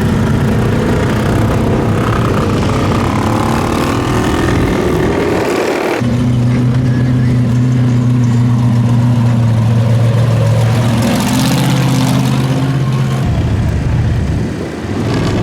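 Mud truck engines running loudly; from about six seconds in, one engine holds a steady high rev for several seconds, its pitch stepping briefly up around eleven seconds in, then drops away near the end.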